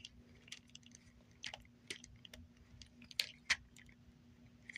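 Small plastic parts of an action figure being handled and pulled apart: scattered light clicks and creaks, two sharper clicks a little past the middle.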